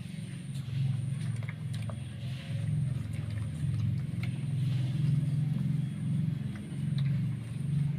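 Low, steady rumble like a running engine, swelling and fading every second or two, with a few faint clicks over it.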